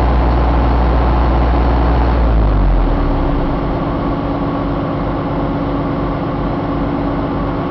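Isuzu 4JB1 four-cylinder diesel engine running, dropping from a raised speed back to a steady idle about two and a half seconds in.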